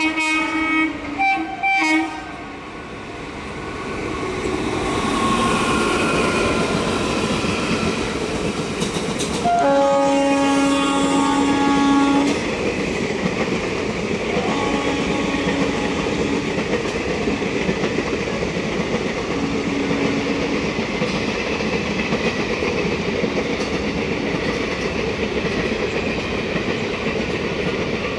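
WAP4 electric locomotive horn sounding a few short blasts, then one long blast about ten seconds in and two fainter short blasts later. Between and under them is the swelling rumble and clatter of an express train's locomotive and coaches passing at speed.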